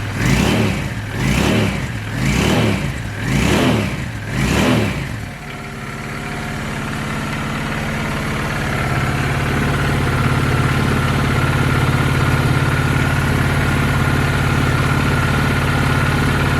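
2007 Honda VT750 Shadow's V-twin engine just started from cold on choke, its revs rising and falling five times about a second apart, then settling about five seconds in to a steady fast idle that slowly grows louder.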